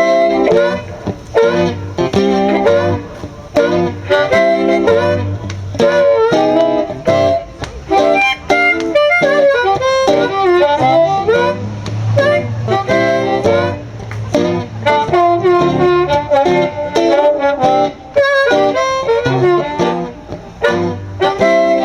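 Live acoustic blues intro: harmonica playing bending lines over strummed and picked guitar, with no singing yet.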